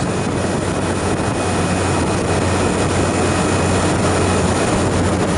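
Refrigeration condensing unit running: steady fan and airflow noise over a constant low hum from the compressor.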